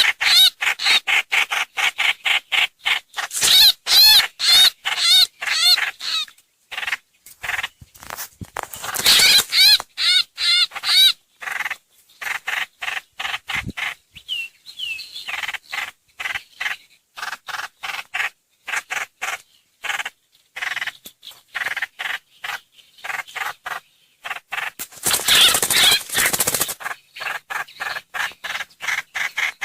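Recorded calls of the songbird called trao trảo / hoành hoạch in Vietnamese, played as a trapping lure: a fast run of sharp chattering notes, several a second, broken by bursts of quick warbling song around 4, 10 and 26 seconds in.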